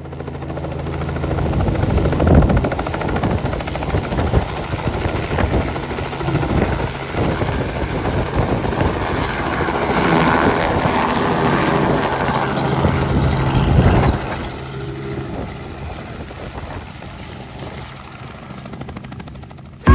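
Helicopter's rotor and engine running steadily, with a pulsing low hum under a noisy rush. It grows louder over the first couple of seconds and drops to a lower level about 14 seconds in.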